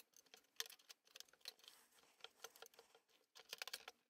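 Faint scattered clicks and light scrapes of a steel ruler drawn across plasticine to level it flat, with a small cluster of them near the end.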